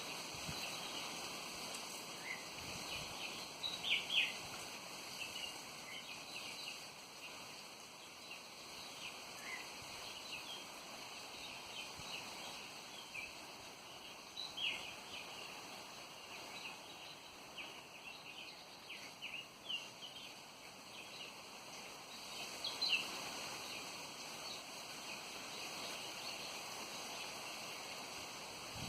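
Many small birds chirping in short, high notes that come irregularly and often several at once, over a steady rush of wind.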